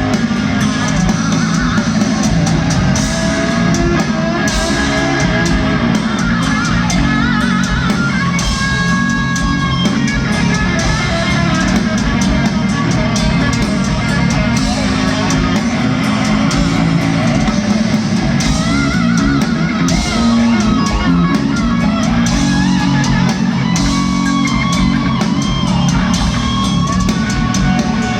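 Heavy metal band playing live, with distorted electric guitars, bass and a drum kit. A wavering melodic line rides high over the dense, steady wall of sound.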